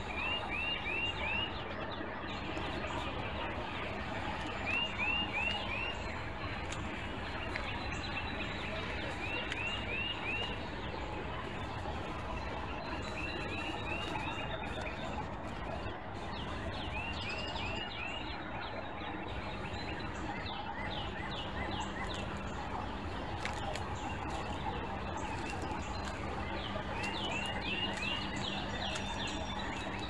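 Outdoor birdsong: one bird repeats a quick phrase of four or five clear notes every few seconds over a busy background of other birds' chirps and a steady hiss. A low steady hum joins about two-thirds of the way through.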